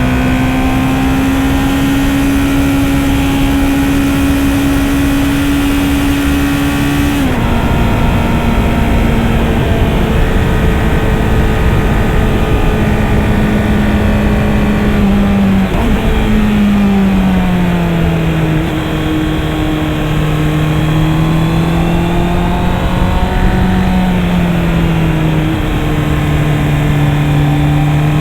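Honda CB650R's 649 cc inline-four engine running under steady load at a sustained high pitch, over a thick rush of wind noise. Its pitch drops suddenly about a quarter of the way in and again a little past halfway, as it shifts up a gear, then wavers slightly with the throttle.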